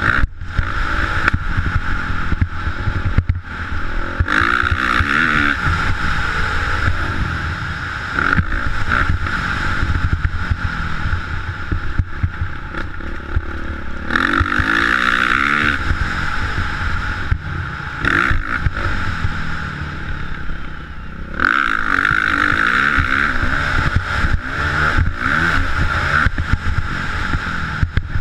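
Motocross motorcycle engines running and revving, the pitch rising and falling in repeated surges over a steady background roar.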